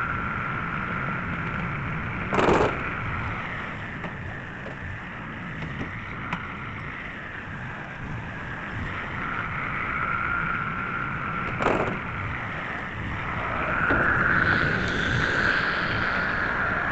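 Tractor running with a manure spreader, a steady machine noise with a whine that fades and swells, louder near the end, and two sharp bangs about nine seconds apart.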